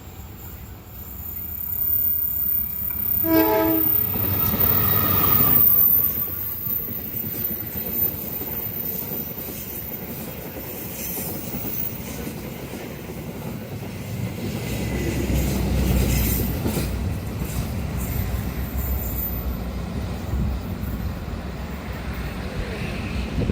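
Train passing a level crossing: its horn sounds briefly about three seconds in, then the train runs past with a steady rumble of wheels on the rails, swelling again about two-thirds of the way through.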